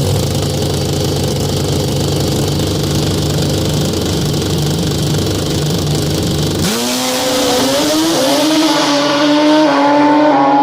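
Nitrous Suzuki Hayabusa inline-four drag-racing engine. A steady engine note, then an abrupt change about two-thirds in to a higher note that rises and keeps climbing in steps as the engine revs hard.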